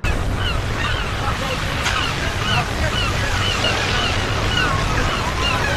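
Ocean surf washing steadily with a deep low rumble and some wind. Many short, high bird chirps are scattered throughout.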